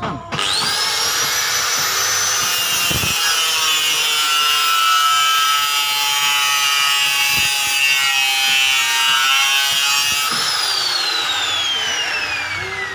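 Homemade coconut grater driven by a used water pump's electric motor: switched on with a quick rising whine, running with a steady rasping noise for about ten seconds, then switched off and winding down with a long falling whine.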